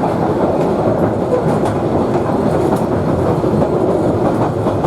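Queensland Rail 2000 class rail motor running along the track: a steady rumble with a few faint clicks of the wheels over rail joints.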